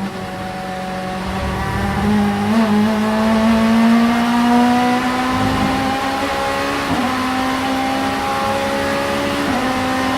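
Vauxhall Vectra Super Touring car's 2.0-litre four-cylinder racing engine at high revs, pulling hard, its pitch climbing slowly with short dips about a quarter of the way in, about two-thirds in and near the end.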